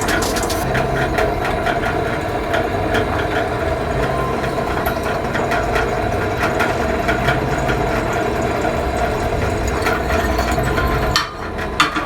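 Electric drill boring a hole through metal stock, its motor running steadily under load while the bit chatters, then stopping near the end.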